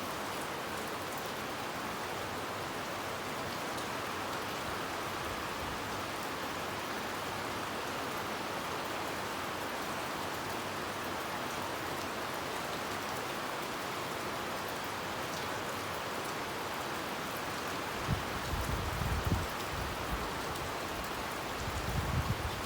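Heavy rain falling steadily. Near the end, a few irregular low thumps rise over it.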